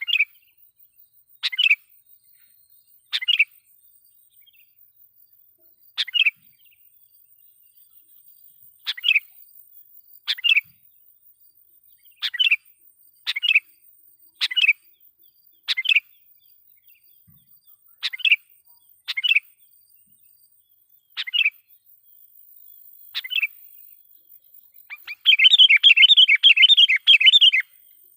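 A sooty-headed bulbul (kutilang) gives short, loud call notes one to three seconds apart. Near the end comes a rapid run of chattering notes lasting a couple of seconds.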